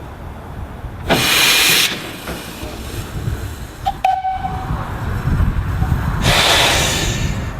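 Narrow-gauge 0-4-0 saddle tank steam locomotive blowing off two loud bursts of steam hiss, one about a second in and another about six seconds in. Between them are a low rumble and a brief high tone near four seconds.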